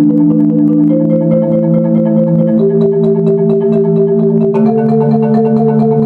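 Solo marimba playing a slow chorale in rolled chords: rapid repeated mallet strokes sustain each chord, which changes about a second in, again near the middle, and once more about three-quarters through.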